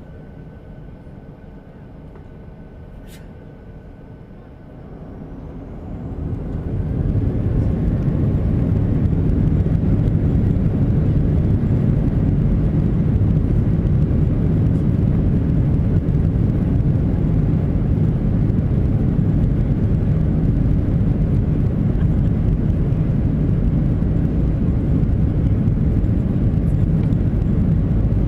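Boeing 737-800's CFM56-7B turbofan engines spooling up to take-off thrust, heard inside the cabin: a low hum swells over about two seconds, roughly five seconds in, with a faint rising whine, into a steady loud roar.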